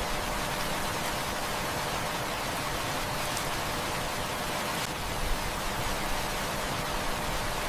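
Heavy rain falling as a steady, dense hiss, with a few faint crackles from a wood fire.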